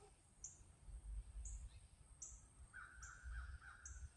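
Faint, distant crow cawing: a short run of harsh calls in the last second or so, with brief high chirps from another bird repeating about once a second.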